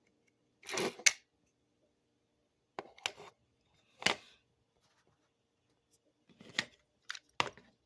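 Plastic clicks and short scrapes from a G1 Transformers Hot Spot toy being worked by hand, as its rebuilt hand-push tab is operated. There are about six separate sounds with pauses between them, the sharpest click about a second in.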